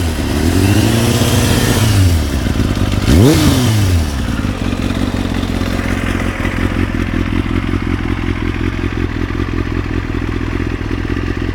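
Kawasaki ZX-7R's inline-four engine through an Akrapovic exhaust, revved and held for a couple of seconds, then blipped once sharply about three seconds in, before settling back to a steady idle.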